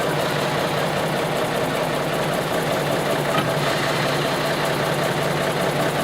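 Train's engine idling steadily.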